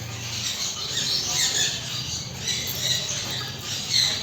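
Many parrots in an aviary chattering, with repeated short chirps and squawks overlapping throughout.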